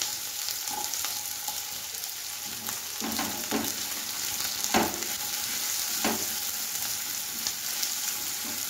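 Diced potatoes and onions sizzling in mustard oil in a kadai, stirred with a spatula that scrapes and knocks against the pan several times in the middle.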